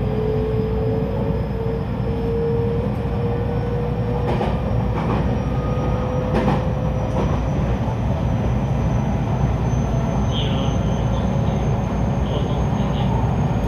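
JR 223 series 2000-subseries electric train running: a steady rumble with a traction-motor whine slowly rising in pitch as the train gathers speed. A few clacks sound over rail joints midway.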